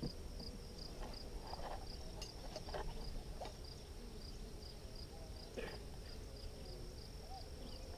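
An insect chirping high and steadily, about three chirps a second, with faint buzzing of honeybees and a few light knocks from handling hive frames.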